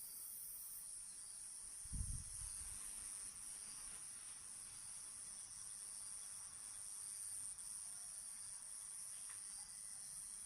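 Night-time ambience of crickets chirring steadily in a high, even band, with a single dull low thump about two seconds in.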